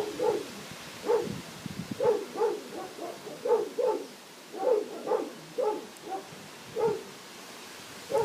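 Kittens mewing: about a dozen short, thin mews, often in quick pairs, coming every half second to a second.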